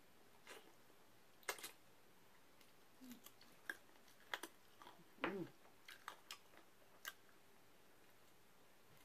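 Close-miked mouth sounds of someone eating rotisserie chicken by hand: a scattered series of sharp wet smacks and clicks of chewing and biting, with a short hum about five seconds in.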